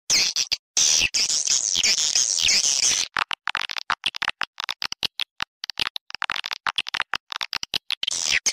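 Swiftlet call recording played as a lure for a swiftlet house: high chirps sliding down in pitch, then from about three seconds in a fast clicking twitter. Many short silent gaps break it up.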